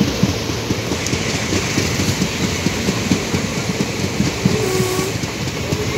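Train running along the track, heard from inside the coach: a steady rumble of wheels on rails with continual low rattling.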